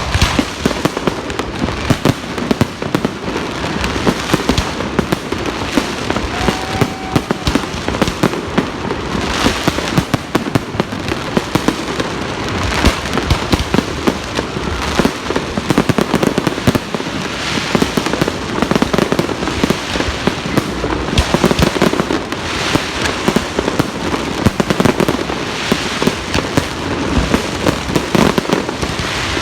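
New Year's Eve fireworks and firecrackers going off in a dense, continuous barrage of overlapping bangs and crackles, with no let-up.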